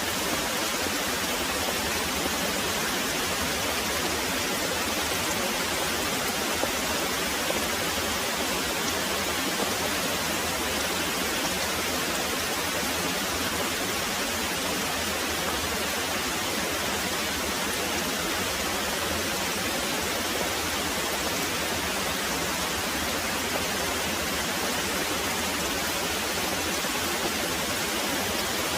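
Very heavy rain pouring steadily, an even, dense hiss that does not rise or fall.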